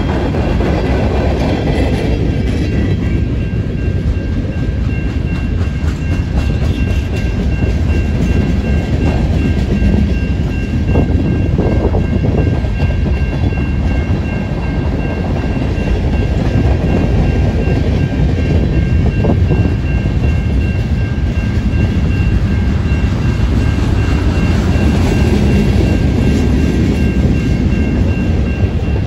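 Freight cars of a long mixed train (boxcars, tank cars and covered hoppers) rolling steadily past on jointed track: a continuous rumble and rattle of steel wheels on rail with a clickety-clack. A grade-crossing bell rings throughout as evenly pulsing high tones.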